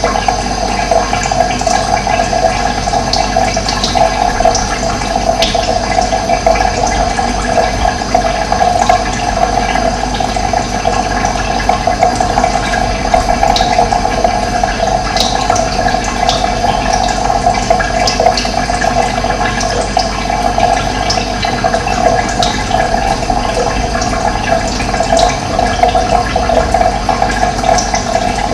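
Steady rushing of running water, even throughout, with a few short, faint high chirps above it.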